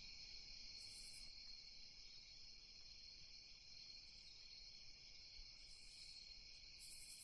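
Faint night ambience of crickets chirping in a steady chorus, with a few brief higher chirps about a second in and twice near the end.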